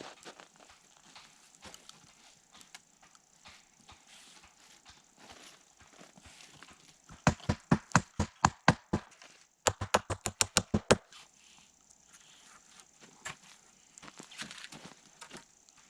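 Hammer driving a nail into a log: two quick runs of about ten sharp blows each, a little past halfway, with scattered quieter knocks around them.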